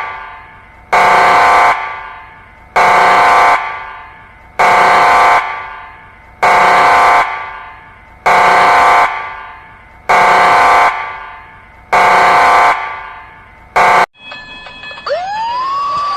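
Emergency alert alarm sounding a multi-tone, horn-like chord in short blasts about every two seconds, each ringing out in an echo. Near the end it cuts off and a siren starts winding up in pitch.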